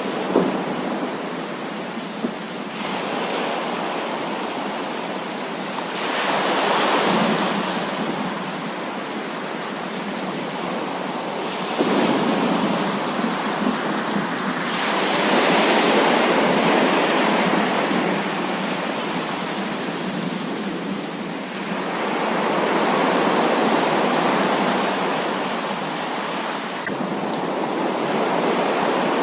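Heavy rain falling steadily, swelling louder several times and easing back, with a few sharp drop clicks.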